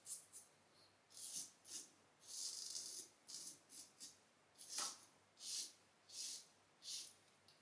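Safety razor blade scraping through lathered stubble in a run of short strokes, about a dozen of them, with one longer stroke about two seconds in. This is the third, against-the-grain pass of a RazoRock Game Changer 84P fitted with a Blue Bird stainless blade.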